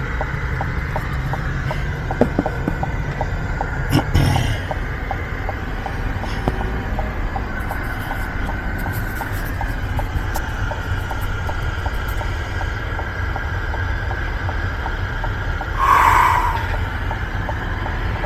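Truck running, heard from inside the cab: a steady low rumble with a light regular ticking about four times a second. A couple of brief knocks come about 2 and 4 seconds in, and a short louder sound about 16 seconds in.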